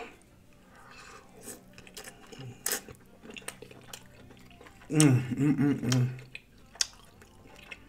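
Close-up eating sounds of someone chewing buttery lobster meat: wet mouth smacks and clicks, with a short wavering hum of enjoyment about five seconds in.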